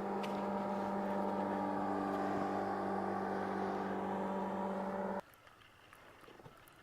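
Boat motor running at a steady pitch, then stopping abruptly about five seconds in.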